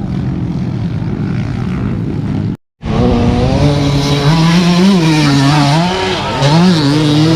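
Motocross dirt-bike engines running. The sound cuts out briefly about two and a half seconds in, then a bike engine revs close by, its pitch rising and falling as the throttle is worked.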